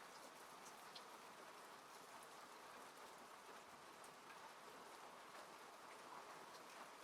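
Faint, steady rain falling on a car, heard from inside, with scattered ticks of single drops hitting the body and glass.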